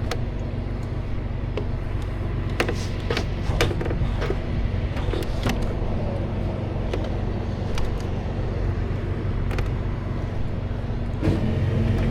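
Tow truck engine idling steadily, with scattered sharp metal clicks and knocks from straps and equipment being handled. Near the end, a louder drone with a steady tone comes in over the idle.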